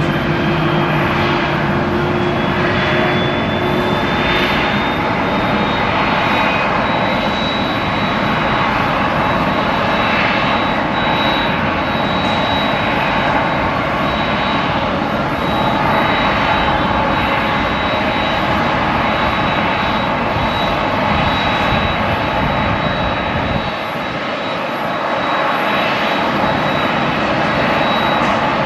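Steady airliner noise on an airport apron: a continuous rushing with a thin high whine held over it.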